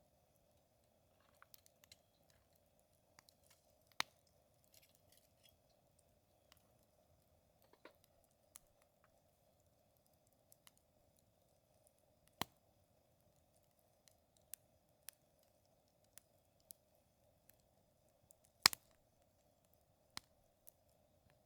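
Campfire wood crackling: sparse sharp pops and ticks at uneven intervals, the loudest about three quarters of the way through, over a faint steady hum.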